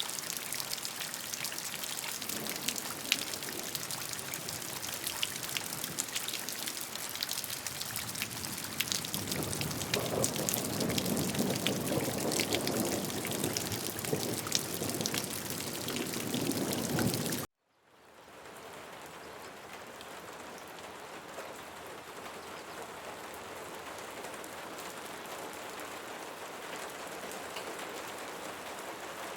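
Rain falling, with many separate drop hits, heavier for several seconds in the middle. About two-thirds of the way through it cuts out abruptly, and a softer, steadier rain fades in.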